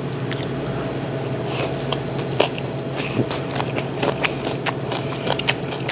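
Close-up chewing of boiled beef, with irregular sharp wet mouth clicks, several a second at times, over a steady low hum.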